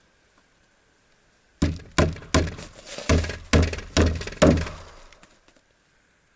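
Hammer driving nails into a wooden board: about seven sharp blows, roughly two a second, starting about a second and a half in.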